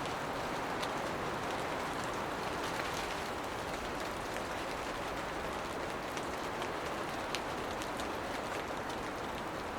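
Steady rain shower in a forest, a constant rush with many individual drops ticking sharply on leaves and surfaces.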